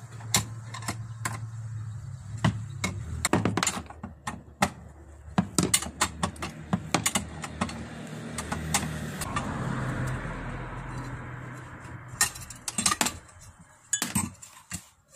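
Irregular metallic clicks and clinks of hand tools and screws as a metal bracket is unscrewed from a washing machine's clutch assembly.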